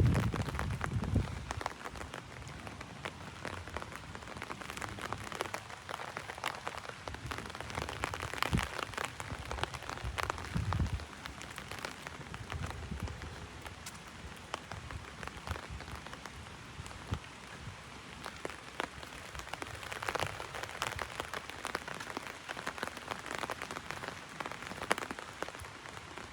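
Heavy rain drumming on an umbrella overhead, a steady patter of many individual drop hits. A brief low rumble sounds right at the start.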